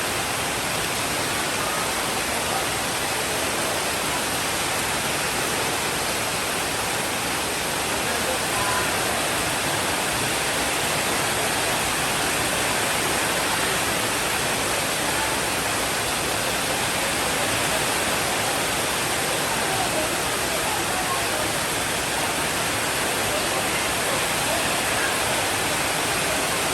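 Steady rainfall, an even hiss of many drops with no change in level and no thunder.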